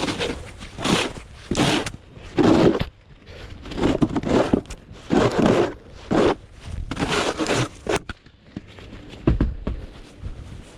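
Snow crunching and scraping in uneven strokes about once a second, with a heavier low thump about nine seconds in.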